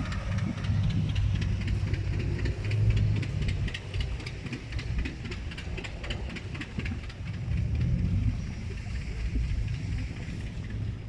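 An engine running steadily: a low rumble with rapid mechanical ticking over it, and the ticking fades near the end.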